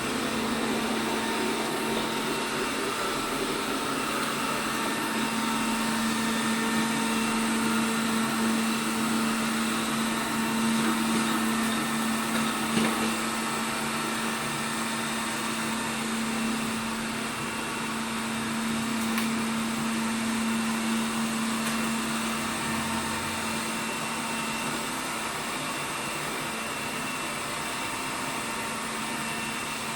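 ELARI SmartBot Lite SBT-002A robot vacuum running, a steady whir with a constant low hum.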